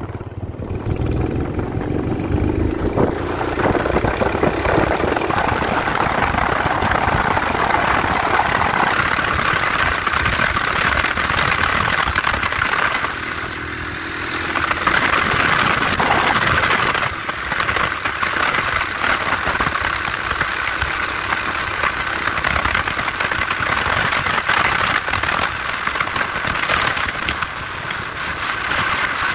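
Yamaha XT500's air-cooled single-cylinder four-stroke engine pulling the motorcycle away, its pitch rising over the first few seconds, then running steadily at road speed under a constant rush of wind noise.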